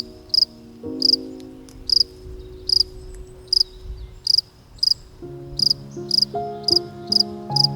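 Insect chirping: short high chirps repeating about one to two times a second, over soft sustained music chords that shift about a second in and again near five seconds.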